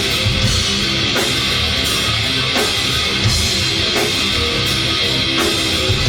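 Live rock band playing an instrumental passage between vocal lines: guitar over a drum kit, with a heavy hit about every second and a half.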